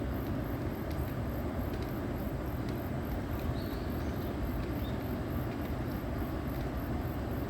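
Steady low rumbling noise with no clear pitch, with a faint high-pitched pulse repeating about four times a second.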